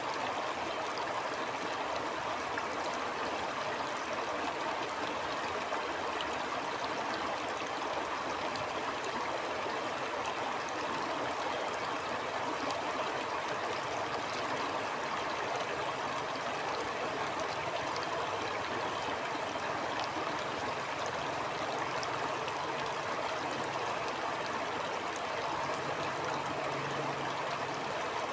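Stream water flowing and gurgling over rocks in a steady, unbroken rush.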